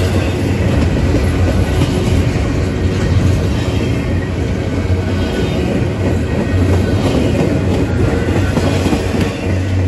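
Double-stack intermodal well cars of a Norfolk Southern freight train rolling past, a loud steady rumble with quick clicking of wheels over the rail joints.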